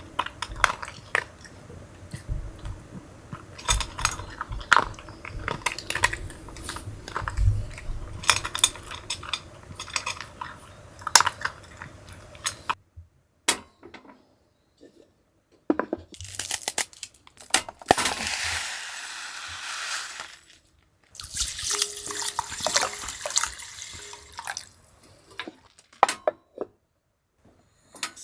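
Dishes and utensils being handled at a camp table: scattered clinks and knocks, with a few seconds of hissing, water-like noise a little past the middle.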